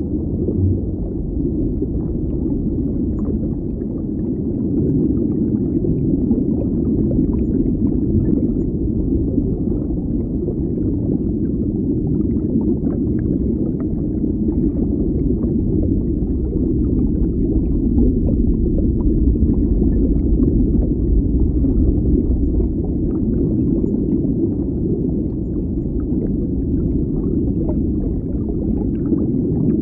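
Underwater ambience: a steady, deep rumbling wash of water noise, with faint scattered clicks and crackles above it.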